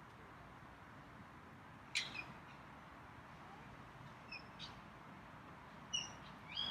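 A small bird giving short, sharp high chirps, in three pairs spread across a few seconds.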